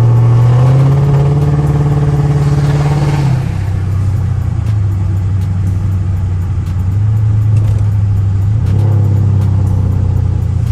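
Dodge Charger R/T's 5.7 Hemi V8 accelerating, its drone rising in pitch for about three seconds, then dropping suddenly at a gear change and running steady. It climbs again near the end.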